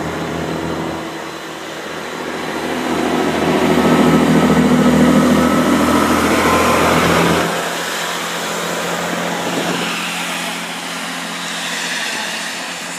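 Class 165 and 166 Turbo diesel multiple units pulling away from the platform, their underfloor diesel engines working hard as the train accelerates. The engine note grows loudest a few seconds in, then drops away sharply about seven and a half seconds in, leaving a lower rumble of the moving train.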